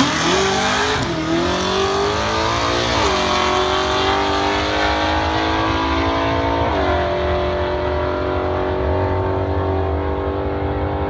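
Ford XT Falcon drag car launching at full throttle and accelerating away, its engine note climbing steeply off the line. The pitch breaks and drops back at gear changes about three and nearly seven seconds in, then holds steadier as the car gets further away.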